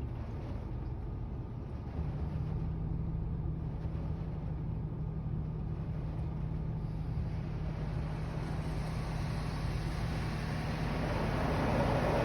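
Car wash machinery heard from inside a car: a steady low rumble, with a low hum that starts about two seconds in and a rushing noise that grows louder near the end.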